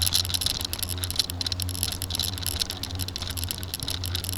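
Steady crackling and rattling from a bicycle ride picked up by a handheld camera: tyre noise, the bike and camera rattling, and a low rumble.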